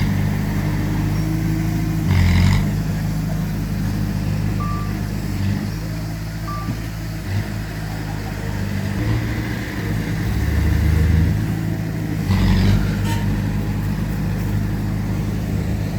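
Heavy diesel earthmoving machinery engines running, with the engine note shifting up and down. There are two short hissing bursts, about 2 seconds in and near 12 seconds, and two brief beeps in between.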